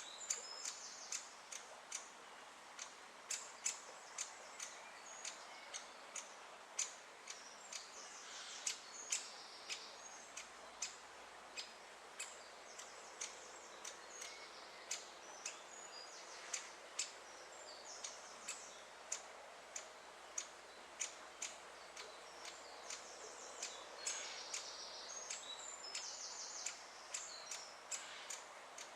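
Great spotted woodpecker chick calling from the nest: a steady run of sharp ticking notes, about two or three a second, with patches of high, rapid chatter.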